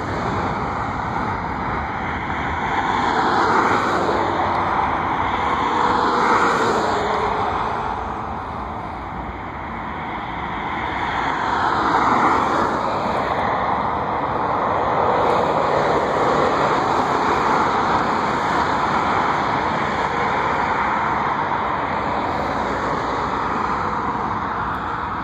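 Steady engine and rushing noise of passing vehicles, swelling and fading several times.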